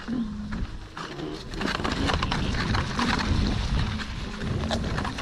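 Electric unicycle riding along a wet track: wind rumbling on the microphone over a faint steady motor hum, with crackling tyre noise from the wet ground.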